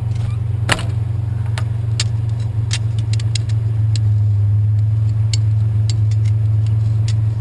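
Steady low hum of a vehicle engine idling, with scattered sharp clinks and clicks of small metal tools and parts being handled and sorted.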